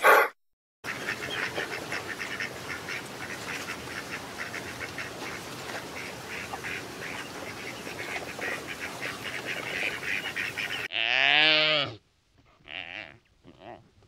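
A flock of whistling ducks calling, many rapid high calls overlapping in a steady chatter. About 11 s in this gives way to one louder, low drawn-out animal call, rising then falling in pitch for about a second, followed by two fainter short calls.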